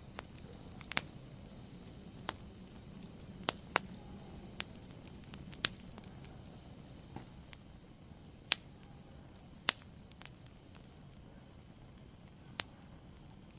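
Wood fire in a fireplace crackling: about ten irregular sharp pops and snaps, the loudest about two-thirds of the way through, over a soft steady low rush of burning.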